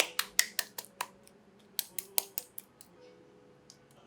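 A rapid run of sharp clicks, about five a second, stopping about two and a half seconds in.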